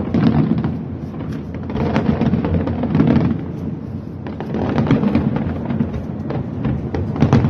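Fireworks going off: a dense run of sharp bangs and crackles over a continuous low rumble, swelling and easing in waves.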